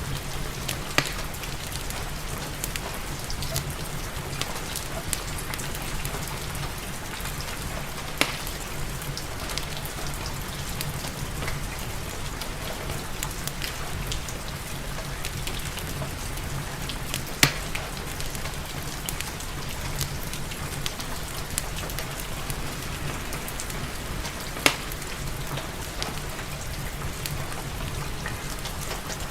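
Steady rain falling, with a wood fire crackling under it and a few sharp, louder pops from the fire spread through the stretch.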